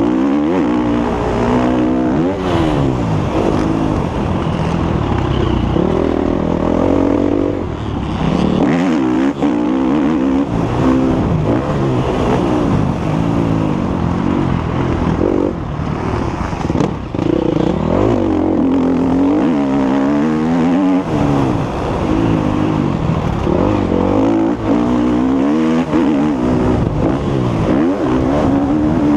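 Motocross bike engine racing, its revs climbing and dropping again and again as it accelerates, shifts and backs off around the track.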